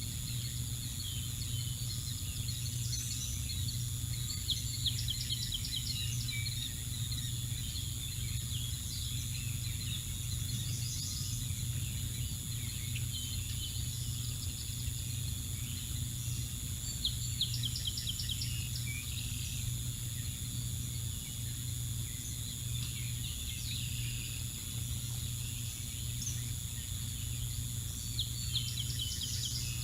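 Small birds chirping, with a short rapid trill every several seconds, over a steady low rumble and a constant high-pitched tone.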